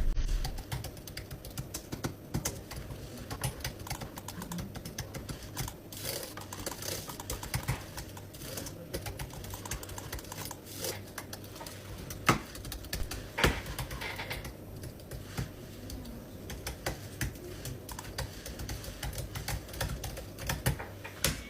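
A long run of irregular light clicks and taps, like keystrokes, with a faint low hum underneath.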